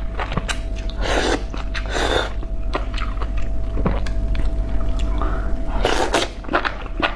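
Close-miked chewing of spicy enoki mushrooms: many short wet clicks from the mouth, with a few longer noisy bursts about one and two seconds in and again near six seconds.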